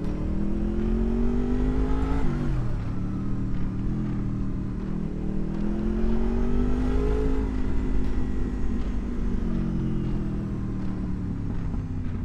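Honda VFR800's V4 engine pulling through the gears: the revs climb for about two seconds, drop sharply at an upshift, climb again until about seven seconds in, then fall away gradually as the throttle closes.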